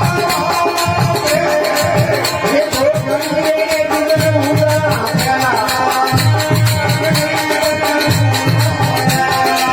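Instrumental passage of a bhajan: a sustained, gliding melody line over a steady drum beat and continuous jingling, rattle-like percussion.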